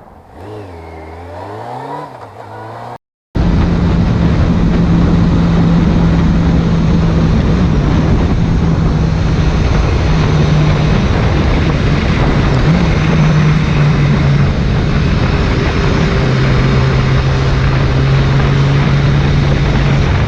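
Motorcycle engine revving up and down for about three seconds, then a hard cut to a BMW S1000R's inline-four engine running at a steady note under loud wind rush on the onboard camera.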